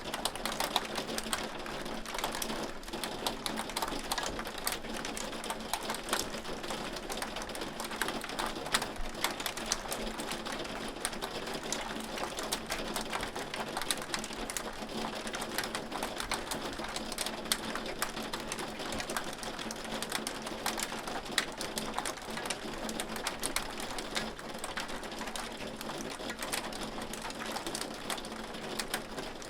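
Hailstones striking a hard surface in a steady shower: a dense, irregular rattle of sharp clicks over a constant hiss.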